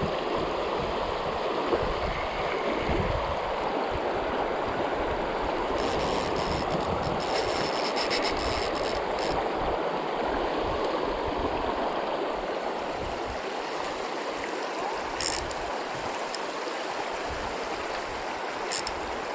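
River current rushing steadily around a wading angler, with a few brief high ticks in the middle and near the end.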